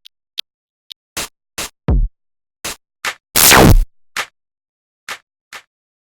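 Electronic drum samples from the Sonic Flex Maschine expansion kit, played one hit at a time on Maschine MK3 pads with silence between them. There are short bright clicks and snaps, a deep kick with a falling pitch about two seconds in, and a loud half-second noisy hit a little past three seconds.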